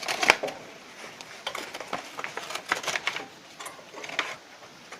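Irregular metallic clicks and taps from the stove's chimney damper being handled and its adjuster worked, the sharpest click coming just after the start.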